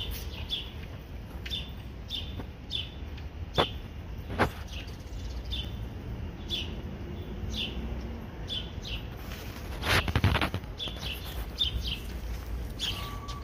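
A bird chirping over and over in short falling chirps, about two a second, over a steady low rumble. There are two sharp clicks about four seconds in and a louder rattling clatter about ten seconds in.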